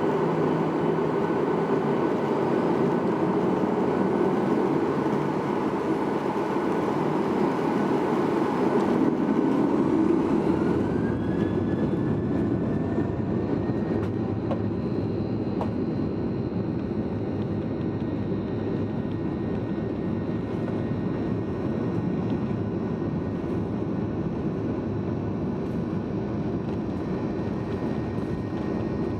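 Jet engine and airflow noise inside the cabin of a Boeing 737-800, with CFM56 turbofans running. About ten seconds in a whine rises in pitch, and the dense rush eases to a steadier, slightly quieter drone.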